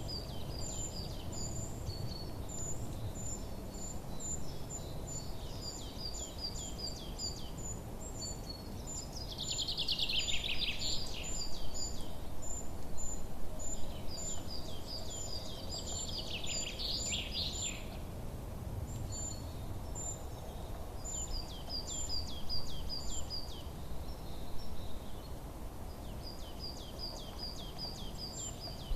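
Small songbirds chirping in quick repeated series of high notes, with two longer, louder trilling songs about ten and sixteen seconds in, over a steady low background noise.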